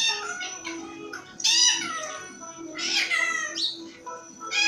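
Pet parakeet giving four loud, shrill, meow-like calls with sliding pitch, about a second and a half apart.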